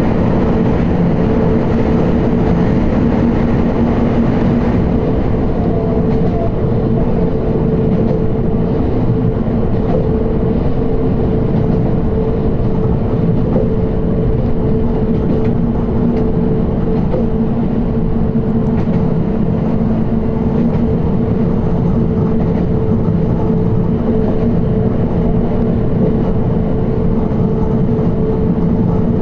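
Electric commuter train running at a steady speed, heard from inside behind the driver's cab: a constant rumble of wheels on rail with a steady motor hum.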